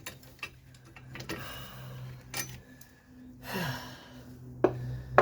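A few scattered clicks and taps of hand tools being handled, with a tired sigh about three and a half seconds in, over a steady low hum.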